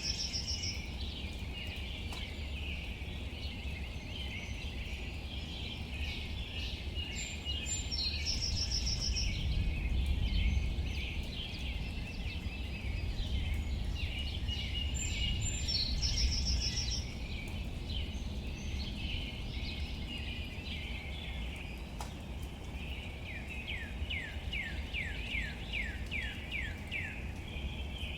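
Several birds singing outdoors. A high trilled phrase repeats three times about eight seconds apart over continuous chirping, and near the end comes a run of about ten quick falling notes. A steady low rumble runs underneath.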